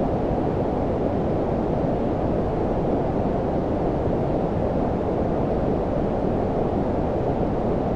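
Steady, unchanging low-pitched noise, like brown noise, with most of its energy below about 1 kHz and little hiss above.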